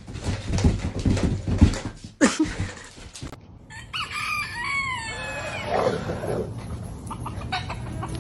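A drawn-out animal call that glides down in pitch, starting about four seconds in and lasting a couple of seconds. Before it come rough knocking and rustling sounds.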